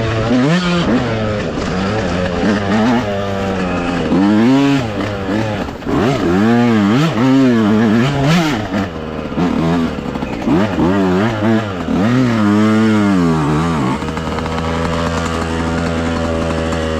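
Dirt bike engine under throttle on a trail, its pitch rising and falling again and again as the throttle is opened and closed. Near the end it settles into a steady, even note.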